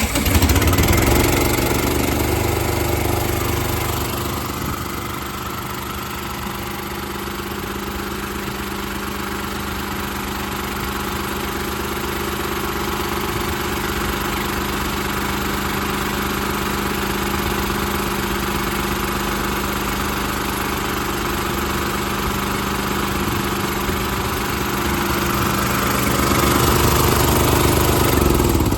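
Small engine of a truck-mounted welder or air compressor catching and then running steadily at a constant speed.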